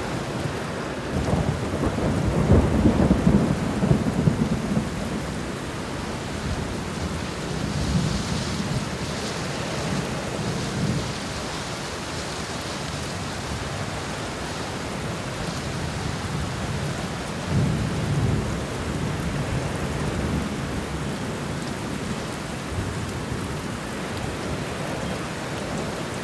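Thunderstorm: steady heavy rain with deep rolling thunder. The loudest rumble swells about two seconds in and rolls on for a few seconds, and a shorter one comes about two-thirds of the way through.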